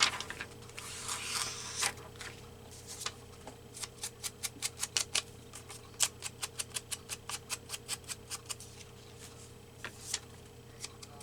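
Rapid sharp clicking from hand work on paper at a craft desk, about three to four clicks a second in runs with short pauses, over a faint steady hum.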